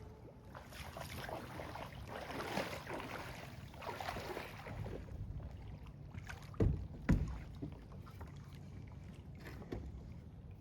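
Scraping and knocking as a heavy driftwood root system is wrestled and moved by hand, with two heavy dull thumps about half a second apart a little past halfway.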